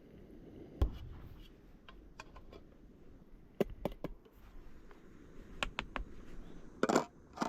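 Handling noises: a few scattered sharp clicks and light knocks, with a low thud about a second in and a short rustling burst near the end.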